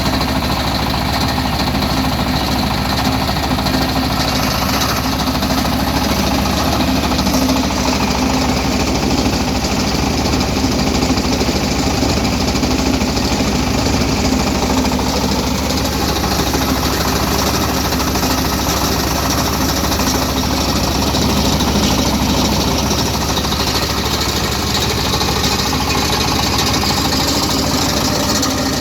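Rice milling machine running, driven by its 15-horsepower diesel engine: a loud, steady mechanical din over a rapid, even low knocking pulse.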